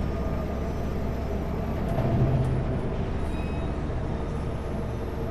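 Kenworth W900L semi truck's diesel engine and road noise droning steadily inside the cab while cruising on the highway, swelling slightly about two seconds in.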